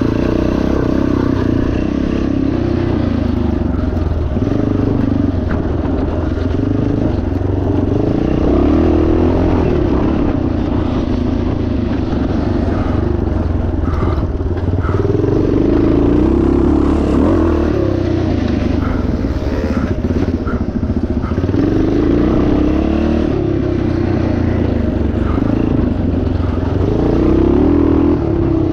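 Yamaha TT500 single-cylinder four-stroke engine running hard off-road, its note rising and falling with the throttle every few seconds.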